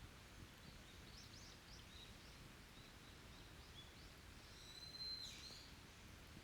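Small forest birds calling faintly: a few short chirps about a second in, then a louder held high whistle ending in a quick downward slide near the end, over a low steady rumble of background noise.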